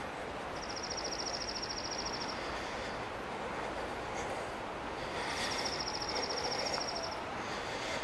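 A small bird singing a high, rapid trill held on one pitch, twice, each about two seconds long, over a steady background rush of noise on the forest trail.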